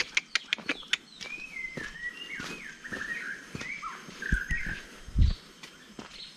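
A forest bird singing a run of varied whistled notes that slide up and down, with short pauses between phrases. Footsteps and clicks on the trail come in the first second, and there is a dull thud about five seconds in.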